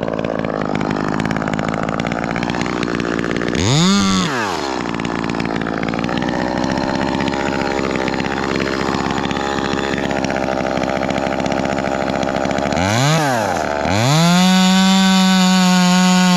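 Ported Echo 2511T top-handle chainsaw idling, blipped up to high revs and straight back down twice, about four seconds in and again near thirteen seconds. Near the end it is held steady at full throttle.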